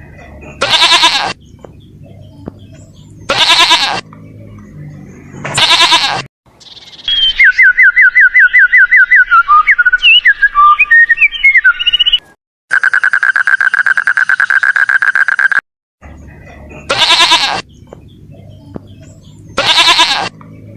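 A run of separate animal call recordings: loud bleats, each call about a second long and repeating every two to three seconds, then a rapid series of high chirps like bird song, then a steady buzzing trill about three seconds long, then two more bleats near the end.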